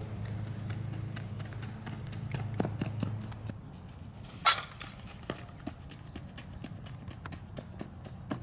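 A softball drill: many light clicks and knocks, with one sharp ball impact about halfway through.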